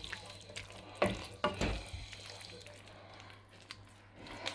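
A spoon stirring chunks of chicken into a thickened stock-and-leek sauce in a saucepan, with a few sharp knocks of the spoon against the pan about a second in, over the faint bubbling of the simmering sauce.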